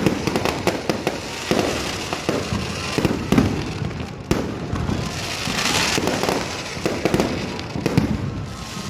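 Fireworks and firecrackers going off in a dense run of sharp pops and bangs, with a hissing swell about six seconds in.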